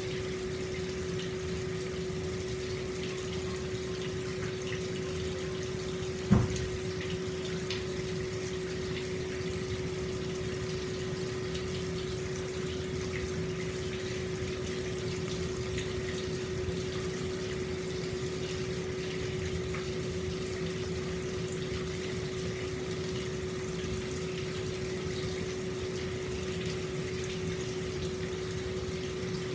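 Hot-spring water flowing steadily into an open-air bath, with a steady low hum underneath. A single dull thump about six seconds in.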